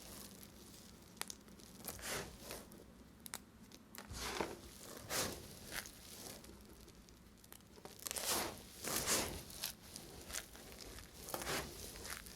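Knife cutting into dry bar soap: a run of irregular crunching scrapes, the busiest stretch about two-thirds of the way through.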